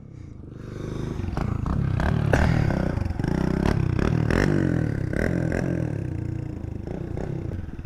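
Mini bike's small engine revving up and down as it is ridden, with a few clattering knocks.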